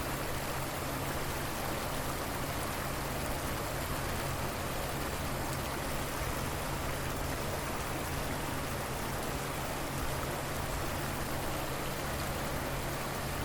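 River water flowing, a steady, even rushing noise with no breaks.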